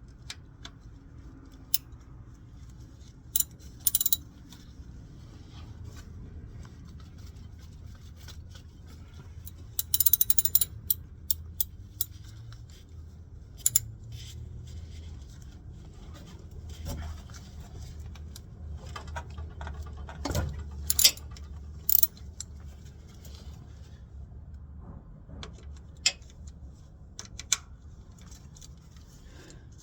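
Metal hand tools clicking and clinking in scattered sharp knocks over a low steady hum, with a quick run of clicks about ten seconds in and another cluster a little past twenty seconds.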